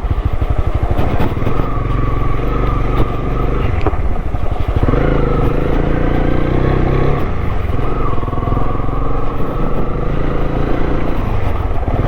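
Honda motorcycle engine running steadily, a continuous low rumble with a wavering whine above it.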